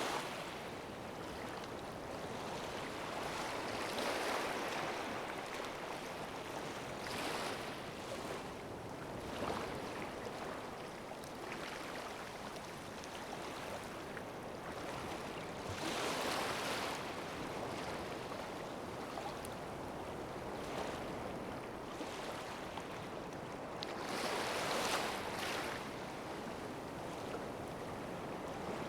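Sea waves washing onto the shore, a steady rush that swells as each wave breaks, every few seconds.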